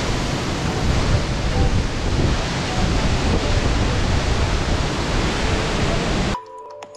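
Steady roar of a waterfall, an even rushing noise that cuts off suddenly about six seconds in, giving way to quiet electronic music.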